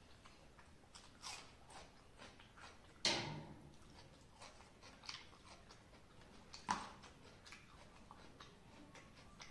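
Close-up mouth sounds of a person chewing a mouthful of rice with wet smacks, with scattered short clicks, the loudest about a third of the way in and again about two-thirds in.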